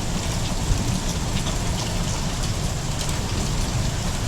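Heavy rain mixed with hail pelting down in a thunderstorm: a steady, dense hiss of rain with scattered sharp ticks of hailstones striking.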